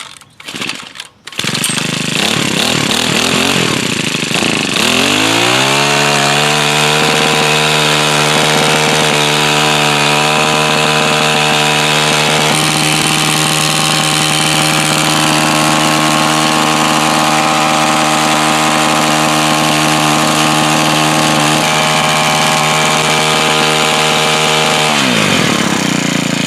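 Small gas tiller engine pull-started, catching about a second and a half in, then revving up and running at a steady high speed. Near the end the revs drop sharply to a lower speed as the throttle is let off.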